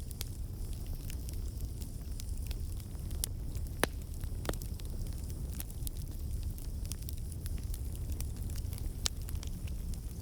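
Campfire burning: a steady low rumble of flames with irregular sharp crackles and pops from the burning wood, one pop louder than the rest about four seconds in.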